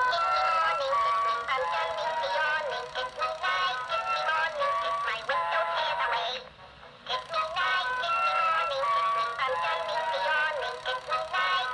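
Gemmy animated Valentine's Tweety Bird toy playing its song through its small built-in speaker: music with a high singing voice, thin and tinny with no bass. The song breaks off briefly a little past halfway, then resumes.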